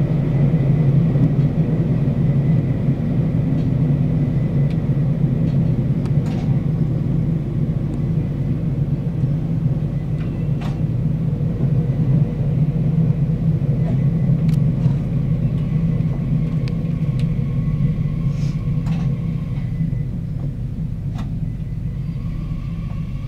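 Cabin of a local train: steady running rumble with a few faint clicks, easing off slowly as the train slows on its approach to the station.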